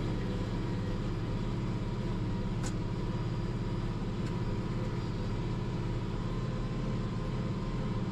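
International 1586 tractor's six-cylinder turbo diesel running steadily under load while pulling a corn planter through the field, with a faint click about two and a half seconds in.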